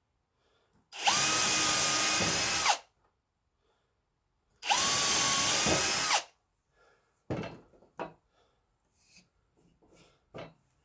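Electric handheld power tool run in two short bursts of under two seconds each, the motor spinning up and winding down with each trigger pull. A few light knocks of handling follow.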